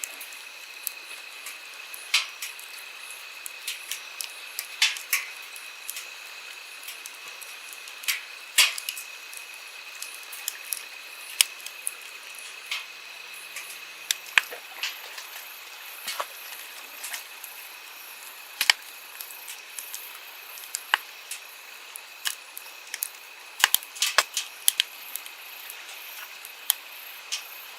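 Wood campfire crackling, with irregular sharp pops and snaps, a quick cluster of them near the end, over the steady rush of a flowing stream.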